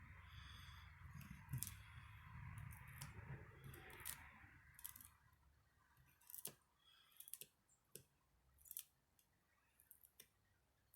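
Faint hiss over a low hum that fades out about five seconds in, then scattered light clicks and short scratchy strokes of spray-paint art tools working the painting.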